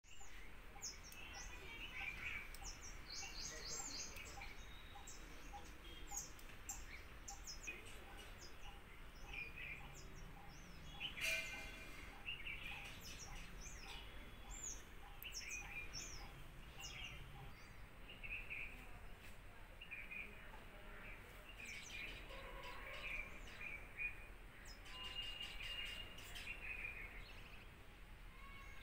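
Several small birds chirping and calling in short, high notes, against a faint outdoor background. A faint ticking note repeats about twice a second through the first half or more, and a brief noise burst comes about eleven seconds in.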